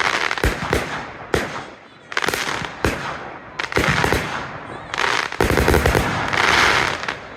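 Display fireworks going off: a string of sharp bangs from bursting shells, sometimes two or three a second, with crackling hiss between them.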